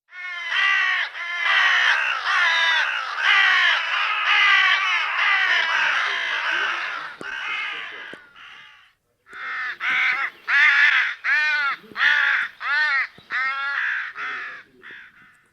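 Crows cawing repeatedly, many calls overlapping for the first several seconds, then after a brief pause a run of separate caws about one or two a second.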